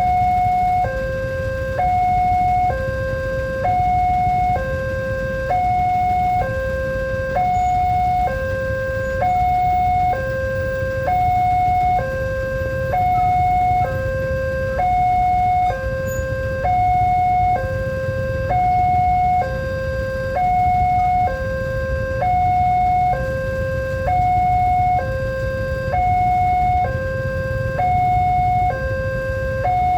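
Railway level-crossing warning alarm sounding, an electronic two-tone signal alternating evenly between a higher and a lower note, each held just under a second. A steady low rumble runs underneath.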